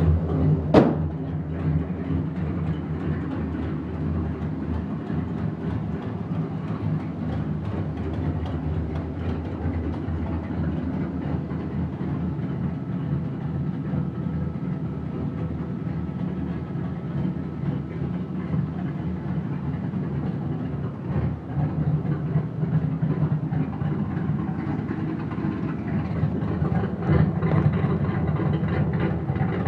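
Boosted Fox-body Mustang engine running steadily, with a fast ticking from a slight exhaust leak. There is one sharp click about a second in, and the engine gets a little louder near the end.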